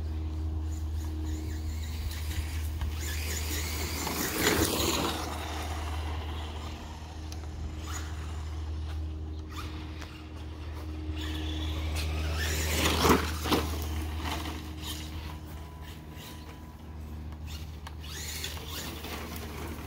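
ECX Torment RC monster truck with a brushless motor and metal-gear transmission driving. Its motor whines up and back down in two loud runs, about four seconds in and again about thirteen seconds in, over a steady low hum.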